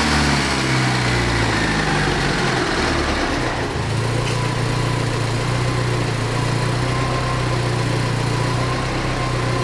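Saab 90's four-cylinder engine on its Stromberg carburettor, dropping back from a light rev over the first few seconds and then idling steadily. It is running smoothly, though the mixture is still on the lean side.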